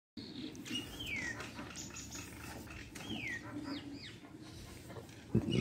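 Birds calling: two clear whistled notes that fall in pitch, about two seconds apart, among shorter chirps. A short low thump near the end is the loudest sound.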